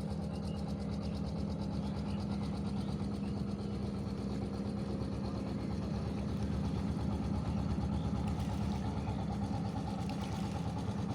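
An engine running steadily: an even low hum with a fast, regular pulse.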